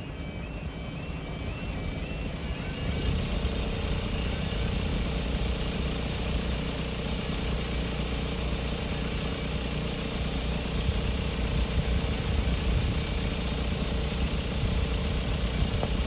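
An engine runs steadily and grows louder from about three seconds in, with a held mid-pitched tone. In the first few seconds, a faint high chirp repeats about twice a second.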